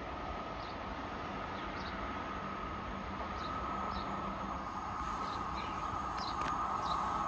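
A train approaching from a distance, its rumble and a steady rail hum growing slowly louder. Short, high bird chirps come every second or so.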